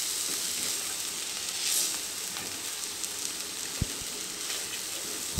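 Ponnaganti greens and dal sizzling in oil in a kadai as a silicone spatula stirs them, with two soft knocks in the second half. The fry is done and is getting its last stir.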